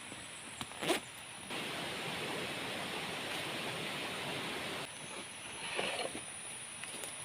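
A steady hiss of water that cuts in abruptly about a second and a half in and cuts off just before five seconds, with a few sharp knocks before it.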